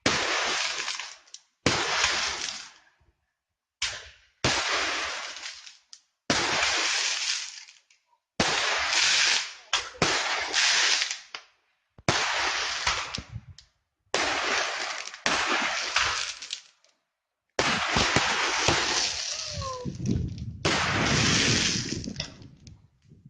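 A linked set of consumer fireworks cakes firing, about a dozen sudden bangs each followed by a crackling, glittering hiss that fades out within a second or two.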